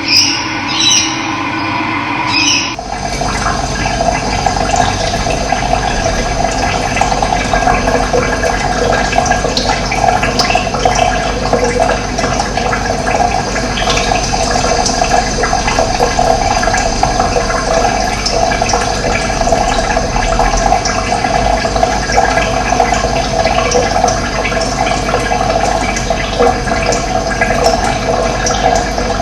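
Steady rushing of running water, cutting in suddenly about three seconds in after a short passage of a different sound with steady tones.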